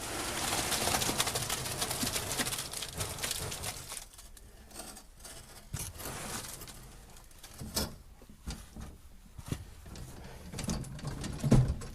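Wet concrete tipped out of a wheelbarrow, a pattering, sliding rush for about four seconds, then scattered knocks and scrapes.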